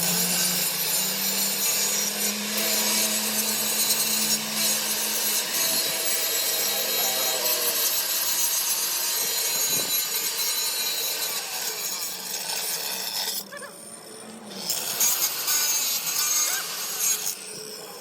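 A power tool grinding on the steel of a truck axle housing, a continuous abrasive rasp that stops briefly twice near the end.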